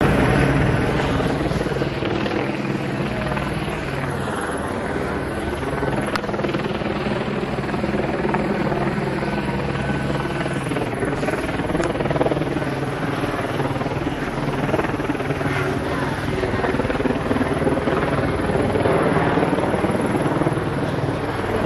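Helicopter flying, its rotor and engine running steadily throughout.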